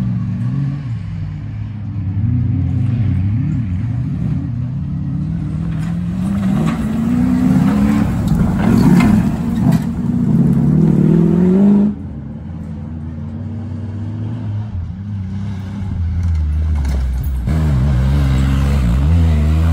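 Comp safari off-road vehicle's engine revving hard through a woodland trail section, its pitch rising and falling with the throttle until it cuts off abruptly about twelve seconds in. A second competing vehicle's engine then runs lower and steadier, growing louder near the end.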